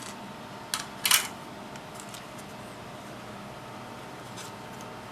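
Two short clicks or knocks from parts being handled on a workbench, close together about a second in, the second louder. After them there is only a steady faint hum.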